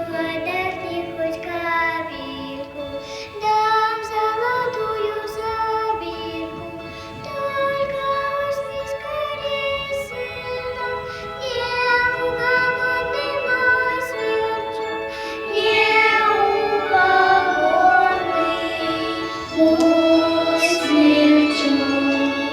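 Young children singing a song together in Russian over musical accompaniment.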